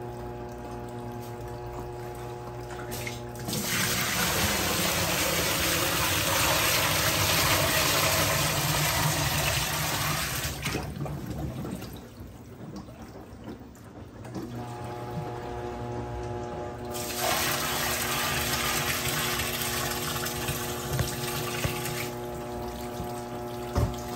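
Water rushing into the tub of a Brastemp 17 kg washing machine in two spells, starting about four seconds in and again about fifteen seconds in, with a steady hum underneath between them.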